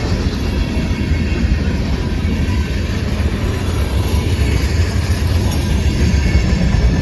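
Freight cars of a long CSX freight train rolling past, a steady loud rumble of steel wheels on the rails.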